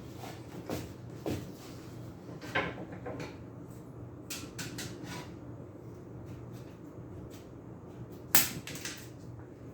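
Handling noises from working on a box fan: a scatter of short knocks and clicks, the loudest about eight seconds in, over a steady low hum.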